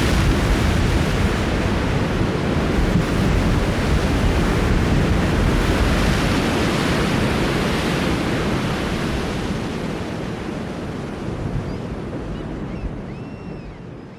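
Ocean surf washing onto a beach, a dense steady rush with wind on the microphone, slowly fading out over the last few seconds. A few faint, high, arching chirps come in near the end.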